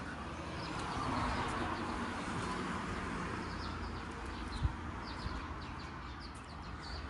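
Small birds chirping and twittering repeatedly over a steady outdoor background noise, with one short knock about four and a half seconds in.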